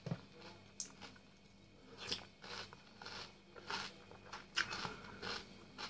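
A person chewing a mouthful of Nesquik chocolate cereal balls in milk, heard close up: irregular wet crunches and mouth smacks every fraction of a second. A sharp click comes just after the start.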